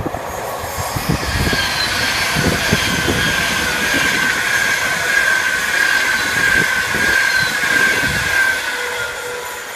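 Virgin Pendolino (Class 390) electric train running past, its wheels clattering over rail joints with a high whine that slowly falls in pitch. The clatter stops about eight and a half seconds in as the last coach goes by, and the sound fades.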